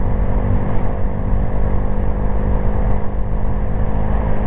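Honda Grom's single-cylinder engine running at a steady speed while cruising, with wind rumble on the microphone. The exhaust is pretty loud for a single cylinder without being straight-piped.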